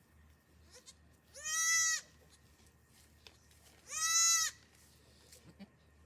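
A goat bleating twice: two short, high calls about two and a half seconds apart.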